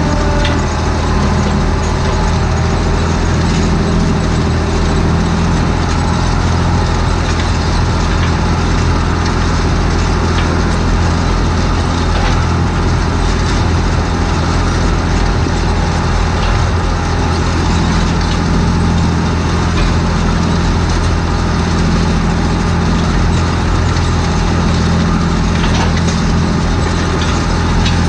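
John Deere 8100 tractor's six-cylinder diesel engine running at a steady pitch while it pulls a grain drill seeding oats.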